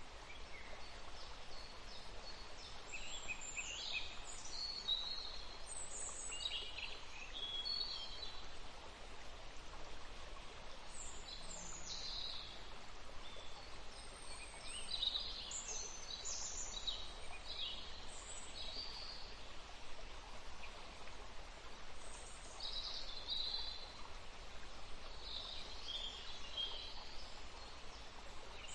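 Several birds chirping and calling at irregular moments over a steady background hiss.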